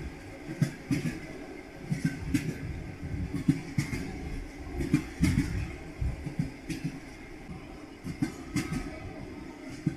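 Train wheels knocking over rail joints on a moving train: a steady low rumble with irregular knocks and clicks.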